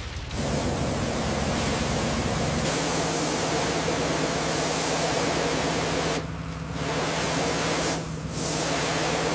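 A steady, loud hiss with a low hum under it, dropping away briefly twice in the later part.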